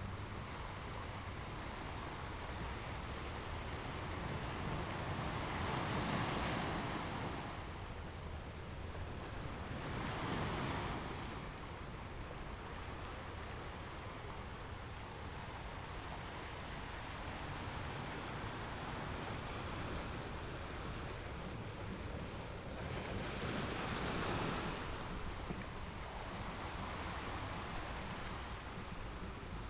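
Sea waves washing in over a steady rush of water, with three louder surges: one about six seconds in, one at ten, and one near twenty-four seconds.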